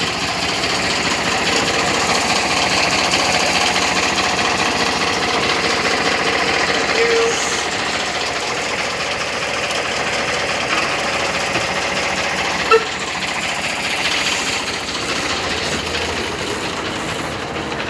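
Miniature railway locomotive's engine running steadily close by, with a single sharp click about thirteen seconds in.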